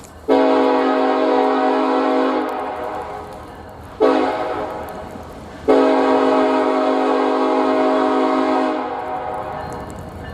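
Diesel locomotive's multi-note air horn sounding three blasts: a long one, a short one about four seconds in, and a long one that ends near the end.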